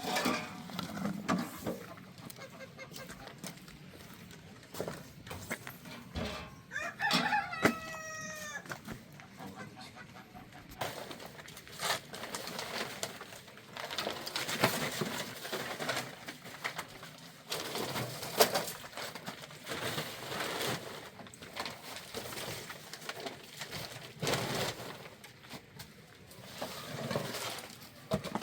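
Chickens clucking, with a rooster crowing once about seven seconds in, among short knocks and rustles.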